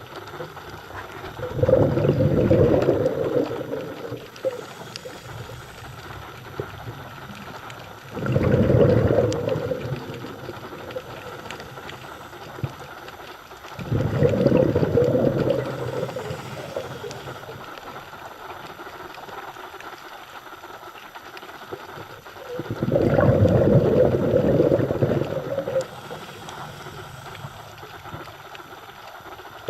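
Scuba diver breathing through a regulator underwater: four long rushes of exhaled bubbles, each two to three seconds long and several seconds apart, with a quieter steady underwater hiss between them.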